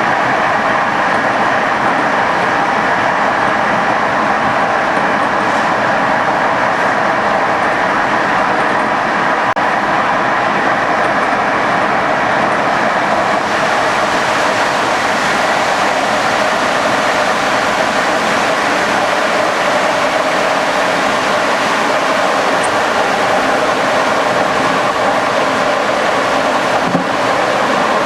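TLK passenger train running along the track: a steady, loud rumble and rail noise, with the higher hiss growing stronger about halfway through.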